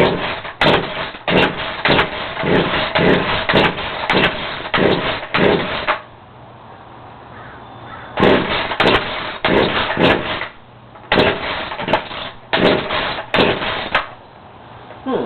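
Poulan two-stroke chainsaw being pull-started over and over, the recoil starter rope yanked about twice a second in three or four quick runs with short pauses between. The engine turns over but does not catch: a cold start after six months of sitting.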